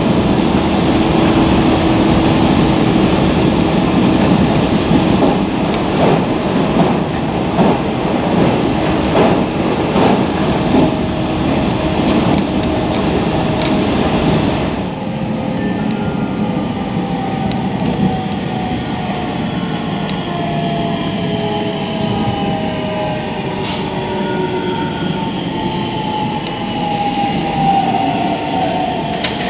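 Electric rapid train heard from inside the carriage, running at speed with wheel clicks over rail joints and a steady hum. About halfway through the sound changes abruptly. From there a whine slowly falls in pitch as the train slows down.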